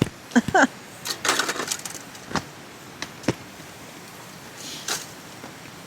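Two brief vocal sounds from a woman, then rustling and a few sharp clicks over a steady hiss of rain.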